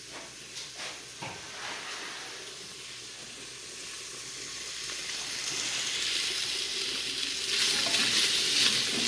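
Kitchen noise: a few light knocks, then a steady hiss that builds up and is loudest near the end.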